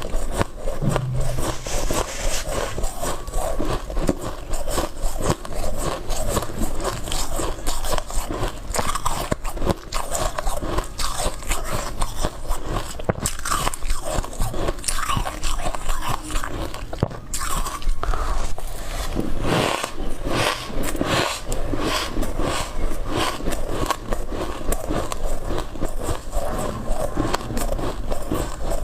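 Close-up biting and chewing of white frozen ice: dense, continuous crunching and crackling, with a run of sharper separate crunches about two-thirds of the way through.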